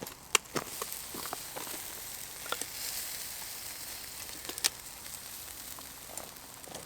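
Food sizzling over a wood campfire: a steady hiss that swells and eases, with a few sharp pops and crackles.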